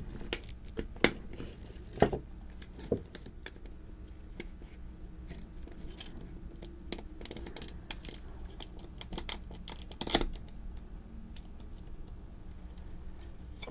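Scattered small clicks, taps and scrapes of hands handling and opening the plastic gear housing of a toy tank. A few sharper clicks come about one, two and ten seconds in.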